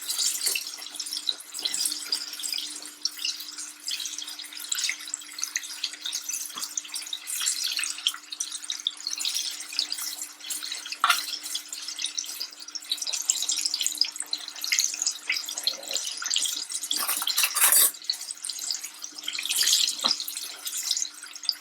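Floured chicken breast pieces deep-frying in a pot of hot oil: a steady sizzle with crackles and pops. A faint steady hum runs underneath.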